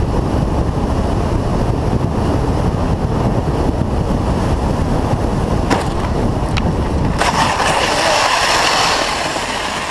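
Steady rumble of road and tyre noise from a moving car, with two short clicks about six seconds in and a louder hissing rush from about seven to nine seconds.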